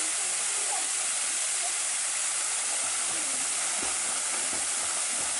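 Waterfall: a steady, hissing rush of falling water. A few faint low knocks come in the second half.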